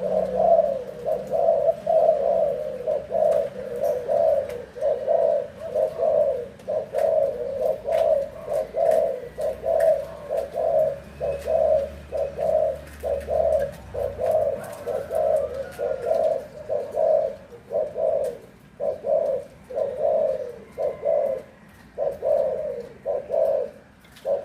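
Spotted dove cooing: a long, unbroken run of low coos repeating about twice a second, with a few brief pauses near the end.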